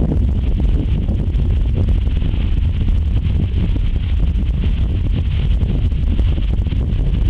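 Wind buffeting the microphone: a steady, loud low rumble, with a constant high hiss above it.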